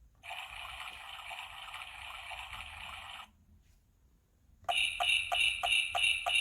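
Recorded sound effects: about three seconds of a noisy, wavering sound, then a short pause, then sleigh bells jingling over horse hoofbeats at about three beats a second, starting a little past the middle.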